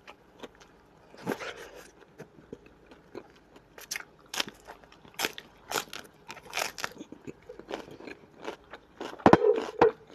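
Close-miked biting and chewing of raw salad vegetables, a napa cabbage leaf among them: a run of sharp crunches every half second to a second, the loudest near the end.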